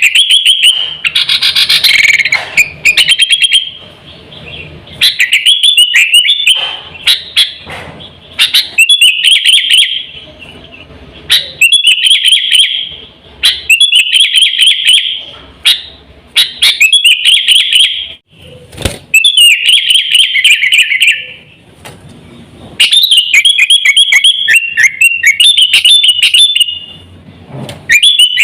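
Sooty-headed bulbul (kutilang) singing loudly in short, bubbly phrases repeated every second or two: a lure call for attracting wild bulbuls and for teaching a caged bird its song.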